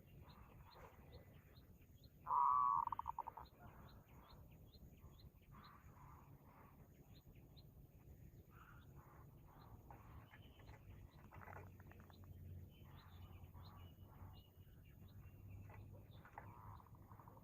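Birds chirping, with short high chirps repeating about twice a second, and one louder call a second long about two seconds in.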